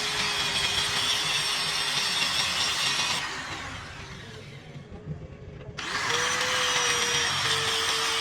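An electric power tool running on workpiece material, switched off about three seconds in and winding down, then started again a little before six seconds and running steadily to the end.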